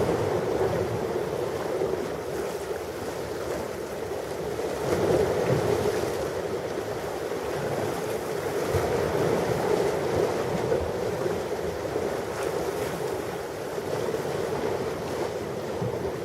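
Ocean waves breaking and washing on a shore: a continuous rushing surf that swells and eases every few seconds.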